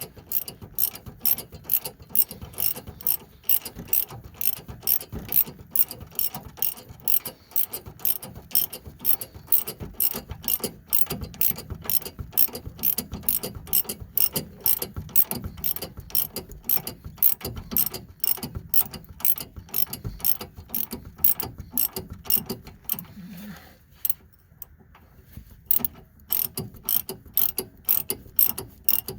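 Hand ratchet wrench clicking steadily as it is swung back and forth, tightening a sway bar link nut, a few clicks a second. The clicking stops for about two seconds about three-quarters of the way through, then resumes.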